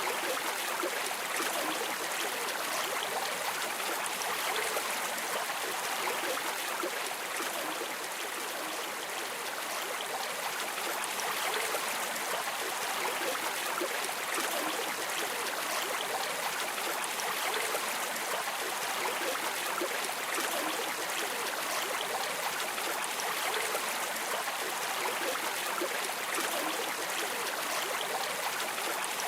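Steady rushing and babbling of a flowing river or stream, with fine trickling detail throughout.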